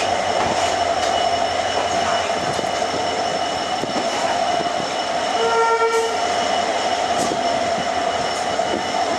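Moving train running steadily on the rails, with a brief train horn blast about five and a half seconds in.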